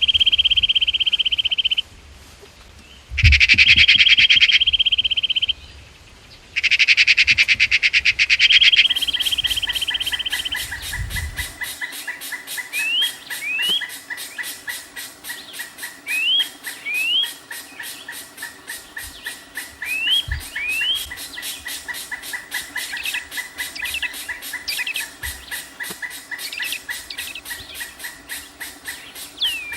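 Bird calls. There are loud buzzy calls in the first third, then short rising chirps, mostly in pairs, over a fast steady ticking.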